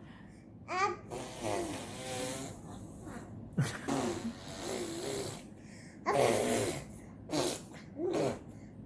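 A baby blowing raspberries, buzzing its lips in a run of about six short, wavering, trumpet-like bursts.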